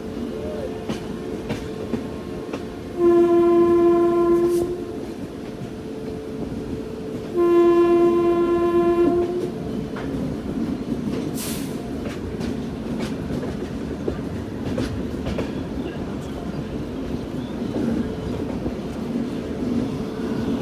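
Train horn sounding two long blasts, a few seconds apart, over the steady rumble and rail clatter of a moving passenger train.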